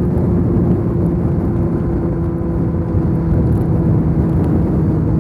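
2019 Suzuki Hayabusa's inline-four engine running steadily under way, its note easing slightly lower, under heavy wind rush on the microphone.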